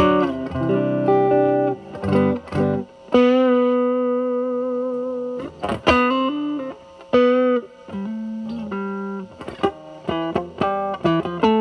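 Telecaster with single-coil Alnico pickups played through a DIY Mosrite Fuzzrite clone fuzz pedal (2N2369 transistor) into a Marshall Valvestate amp, guitar volume rolled back so the fuzz cleans up. Improvised single-note lead lines with a long sustained note in the middle.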